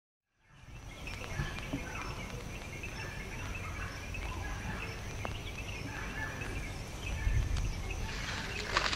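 Bird calls, short and repeated, fading in from silence over a low steady rumble, with a louder crackly patch near the end.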